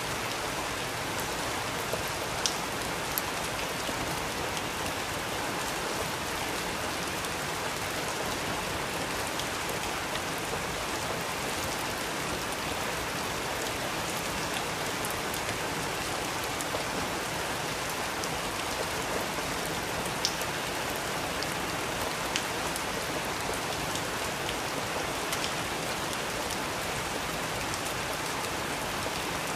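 Steady rain falling on a surface, an even hiss with occasional sharper drop ticks.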